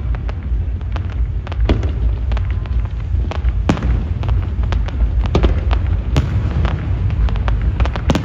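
Fireworks display: a rapid, irregular string of sharp cracks and bangs from bursting aerial shells, over a continuous deep rumble of booms echoing together.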